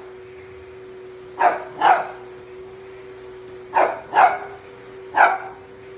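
Small dog barking: five sharp barks in three quick groups (two, two, then one), over the steady hum of a running vacuum cleaner.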